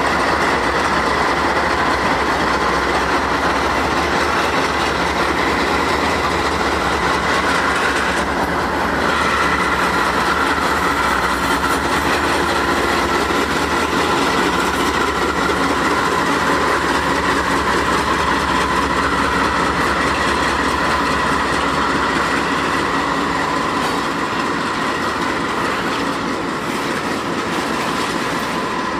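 Freight train pulled slowly forward by a lashup of GE-built BNSF and Norfolk Southern diesel-electric locomotives passing close by: the engines run steadily under load while the wheels grind on the rails with a steady high-pitched squeal. The sound eases slightly near the end as the locomotives pass and the freight cars roll by.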